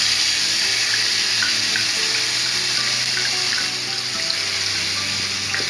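Onion paste frying in hot vegetable oil in a kadai: a loud, steady sizzling hiss that starts just as the wet paste hits the oil.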